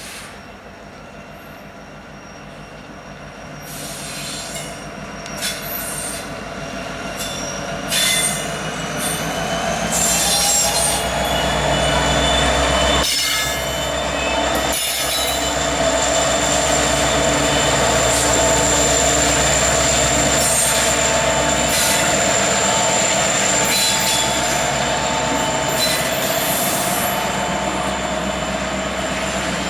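A freight train rolling past, its steel wheels squealing on the rail in several steady high tones, with clicks from the wheels over rail joints. The sound builds over the first ten seconds as the train draws close, then stays loud.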